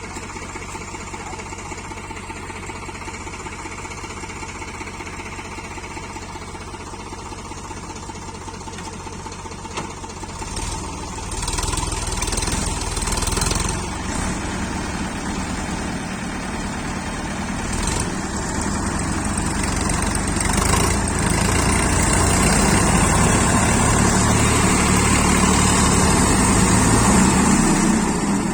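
Diesel tractor engines idling, then revving up under load about ten seconds in and getting louder in steps as a 4WD tractor strains on a tow chain to pull another tractor out of deep mud.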